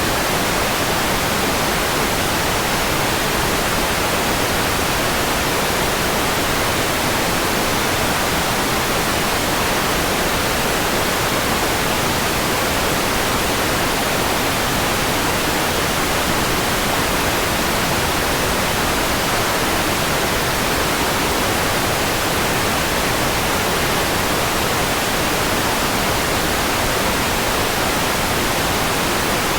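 Steady white noise: an even, unbroken hiss across the whole range, with no change in level.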